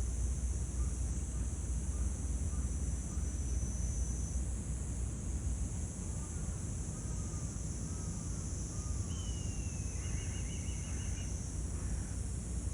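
Outdoor natural ambience: a steady low rumble and a steady high hiss of insect-like noise. Faint birds chirp now and then, and near the end one calls with a falling note followed by a quick run of repeated notes.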